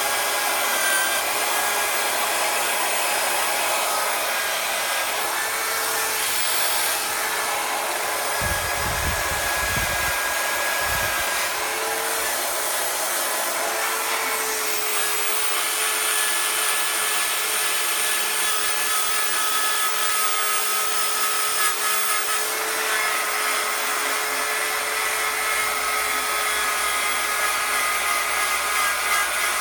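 Handheld electric power tool running steadily with a polishing or abrasive attachment, working on an aluminium engine case: a small high-speed motor's steady whine over a rubbing hiss. A few low bumps come around the middle.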